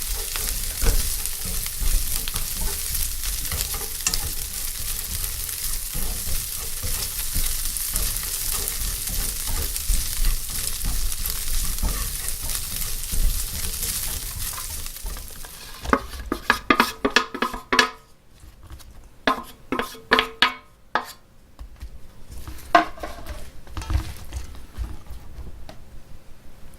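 Bindaetteok (mung-bean-style pancakes made with tofu residue) frying in oil in a pan, a steady sizzle that stops about fifteen seconds in. Then comes a run of sharp clicks and clatters of utensils against cookware.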